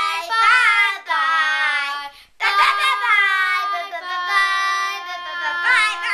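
A child singing in long held notes, phrase after phrase with short breaks between them.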